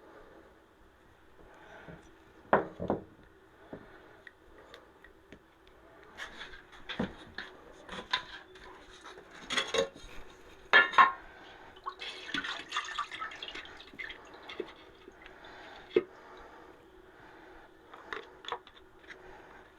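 Small metal carburetor parts and tools being handled: irregular clinks, clicks and knocks, with the loudest knocks a few seconds in and again about halfway through.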